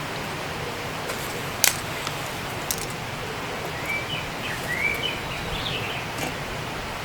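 Forest ambience: a steady hiss of background noise, with a bird chirping a few short rising notes about four to six seconds in. A single sharp click sounds about one and a half seconds in.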